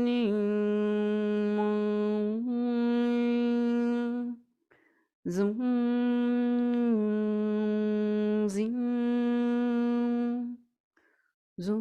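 A woman's voice humming long held tones in two unbroken phrases of about five seconds each, with a short breath between them and a new phrase starting near the end. Each phrase stays on nearly one pitch, with a few small steps down and back up.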